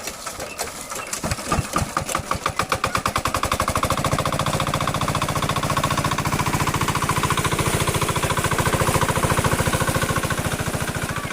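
Small diesel water-pump engine starting: slow, uneven firing strokes about a second in quicken over the next few seconds, and the engine then runs at a steady fast beat.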